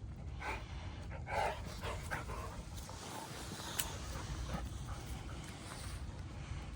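A large dog making short whining vocal sounds, the loudest about a second and a half in, followed by a single sharp click near four seconds.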